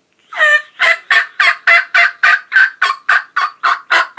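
Cutting on a diaphragm turkey mouth call: a fast, loud run of sharp, choppy yelps and clucks imitating an excited wild turkey hen, about four notes a second.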